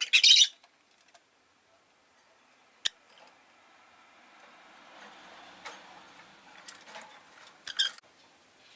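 Rosy-faced lovebird giving two short, loud, shrill calls, one right at the start and one near the end, with a sharp single click about three seconds in. A faint background noise swells up and dies away between the calls.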